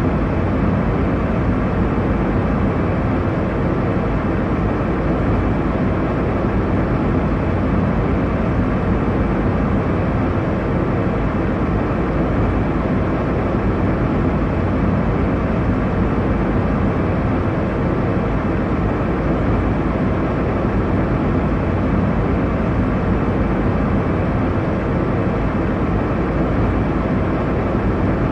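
Steady airliner cabin noise in cruise: a constant low rumble and rush of engine and airflow noise, heaviest in the low and middle range with little high hiss.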